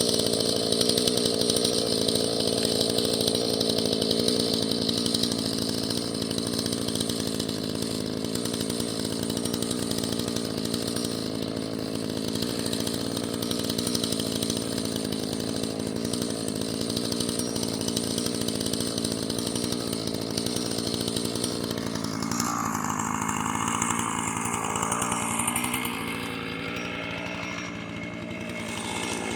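Husqvarna chainsaw running at full throttle through a cut in firewood logs. Near the end its pitch wavers, then it drops back, quieter, to a lower speed.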